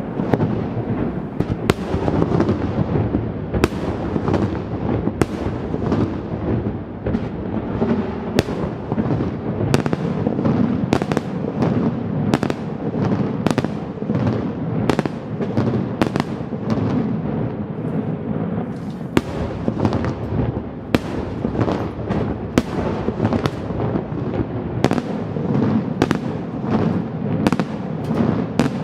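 Fireworks display going off in rapid succession: dense, continuous bangs several times a second over a rolling crackle, with no pause.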